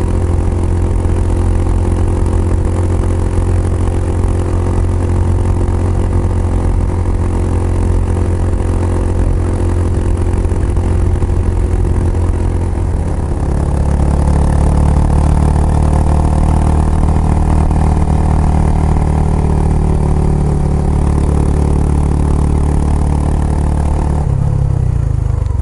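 Kawasaki Estrella's single-cylinder engine running through an aftermarket Yamato muffler while riding at a steady pace. The engine note shifts about halfway through and again shortly before the end.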